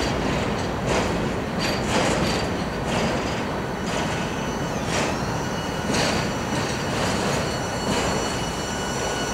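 Empty coal train's hopper cars rolling slowly past, with a steady rumble and wheels clicking about once a second. A thin, high wheel squeal joins about halfway through.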